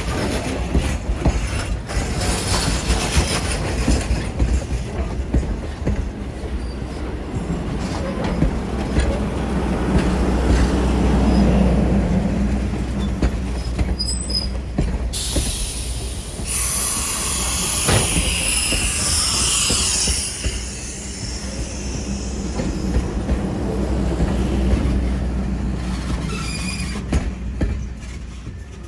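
A passenger train hauled by former Norfolk and Western 475, a 4-8-0 steam locomotive, runs past with a steady rumble and wheels clicking over rail joints. A loud, high-pitched stretch comes in about halfway through and lasts several seconds.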